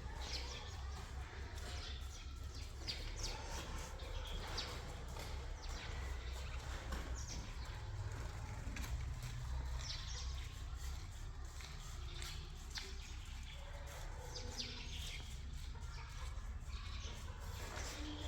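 Small birds chirping in short, scattered calls over a low, steady rumble.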